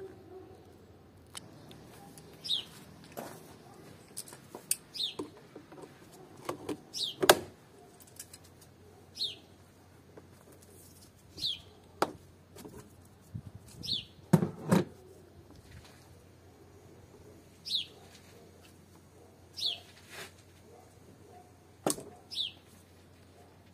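A bird's short falling chirp, repeated every two to three seconds, over sharp clicks and knocks of hand tools and plastic parts as pliers free a hose clamp and the air filter housing is worked loose.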